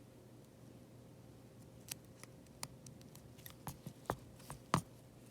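Light clicks and taps of a small hand tool picking leftover fragments of broken screen glass off an iPad mini 5's frame. About eight separate clicks start roughly two seconds in, with the loudest near the end.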